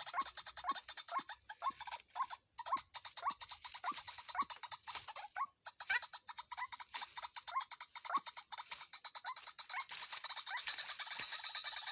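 White-breasted waterhen calling: a steady series of short, upward-sliding, frog-like notes about two to three a second, over a fast, high ticking trill.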